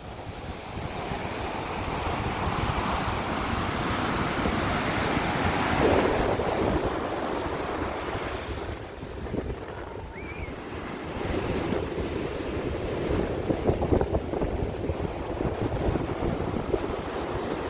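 Ocean surf washing in continuously, rising to a swell about six seconds in and again a little before the end, with a lull between. Wind buffets the microphone throughout as a low, fluttering rumble.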